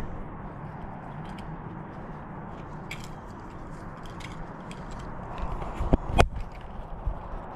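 Footsteps walking along a trail over a steady background hiss, with a couple of louder knocks about six seconds in.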